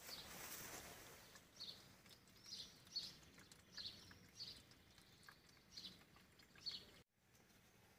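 Near silence with faint, short bird chirps repeating roughly once a second.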